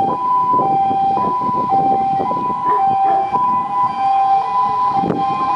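Fire engine two-tone siren alternating high and low about once every half second, with a second siren overlapping from about three seconds in, over the rumble of truck engines and traffic.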